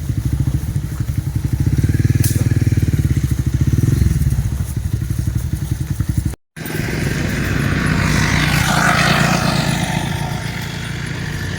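A small engine running steadily. The sound drops out abruptly for an instant a little past halfway, then returns rougher, with a hiss that swells and fades.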